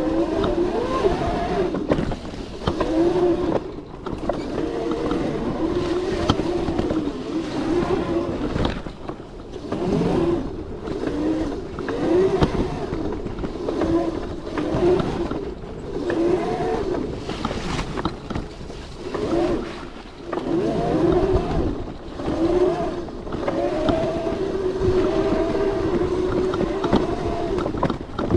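Modified 72V Razor MX650 electric dirt bike riding over trails: its electric motor whine rises and falls over and over as the throttle opens and closes, over rough wind and terrain noise.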